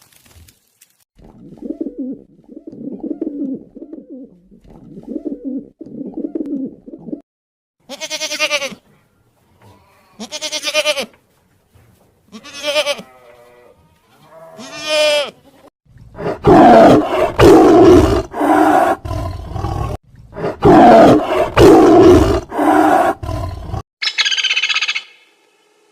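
A run of different animal calls. First, soft low cooing phrases repeat for several seconds, like a dove; then four separate high, strongly pitched calls about two seconds apart; then, for about eight seconds, loud deep calls from a large animal, the loudest part; and at the end one short high-pitched bird call.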